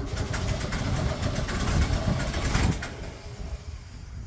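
1965 Ford Mustang engine running unevenly, barely staying running, picking up for a couple of seconds and then dropping back.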